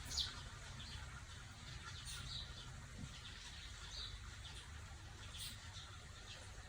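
Faint bird chirps, short and scattered a few seconds apart, over a low steady hum.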